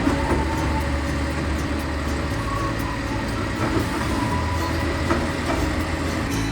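New Way side-loader garbage truck's engine running steadily, its low hum stepping up and down a couple of times, with a few short knocks.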